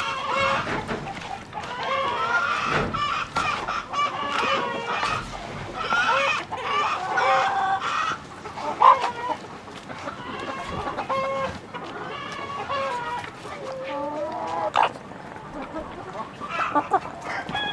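A flock of chickens clucking and calling, many short calls overlapping, with a couple of sharp knocks.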